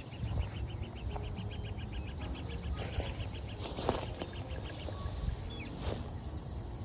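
Outdoor nature ambience with birdsong: a rapid, even chattering trill for the first few seconds over a steady low rumble, with a few sharp rustles.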